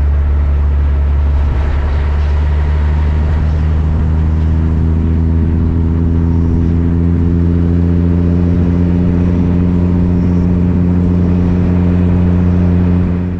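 Ford Ranchero pickup's engine running at a steady cruise with road noise: a constant low drone with a steady engine note.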